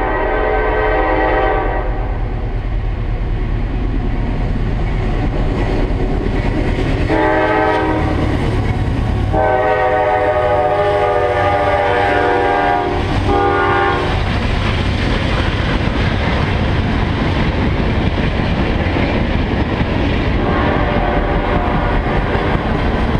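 CSX freight locomotives' air horn sounding four blasts for a grade crossing: two long, a longer third, and a short last one, over the rumble of the diesel engines. Then the tank cars roll past with a steady rolling noise of wheels on rail.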